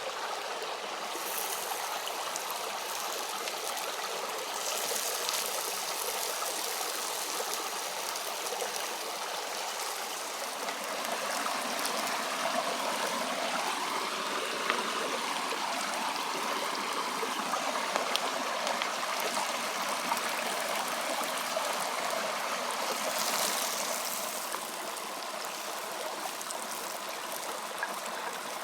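A stream's water running steadily, a little louder through the middle stretch.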